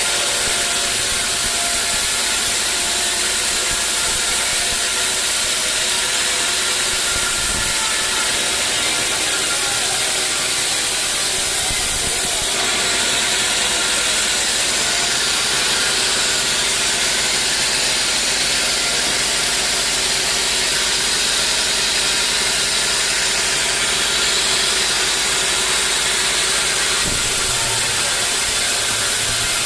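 Sawmill machinery cutting teak logs, running steadily with a motor hum under a dense hiss. The sound changes about twelve seconds in and again near the end.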